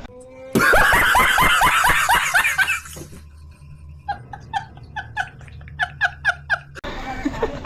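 Laughter that starts abruptly, a loud run of quick bursts of laughing lasting a couple of seconds. After a short pause comes a string of evenly spaced, higher-pitched chuckles that cuts off suddenly near the end.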